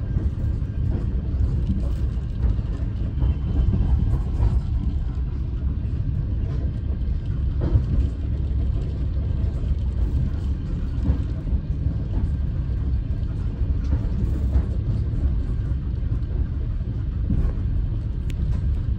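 Passenger train running along the track, heard inside the carriage: a steady low rumble of the wheels on the rails, with occasional faint knocks.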